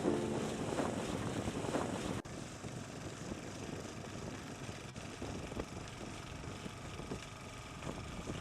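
Motorboat under way: a steady rush of engine, water and wind, with a faint trail of music at the very start and two brief dropouts.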